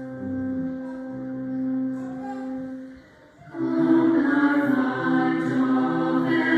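Organ holding sustained chords as the introduction to a hymn, then a brief pause, after which a choir starts singing with the accompaniment.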